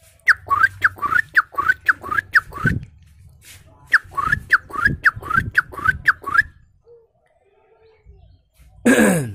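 A man imitating a bird call with his mouth: two runs of quick whistled notes that each slide downward, about three a second, with a short pause between runs. Near the end comes one short, loud vocal sound that falls in pitch.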